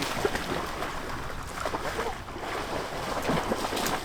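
Wind buffeting the microphone: a steady rushing noise with small scattered knocks and ticks through it.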